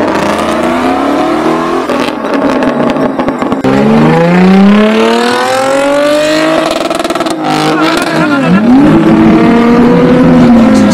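Car engine revving hard under acceleration. From about four seconds in, its pitch climbs steadily for several seconds, drops sharply about eight seconds in, then climbs again.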